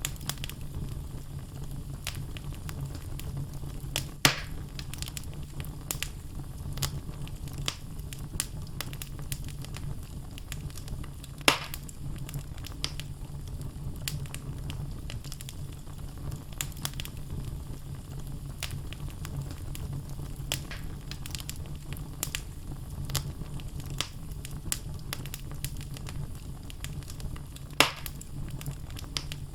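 Wood logs burning in a fireplace: a steady low rumble of flames under constant small crackles, with three louder pops from the wood, one near the start, one about midway and one near the end.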